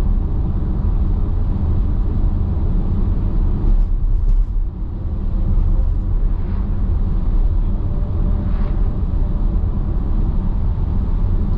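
Steady low rumble of a car's tyres and engine heard from inside the cabin while driving at highway speed on dry pavement.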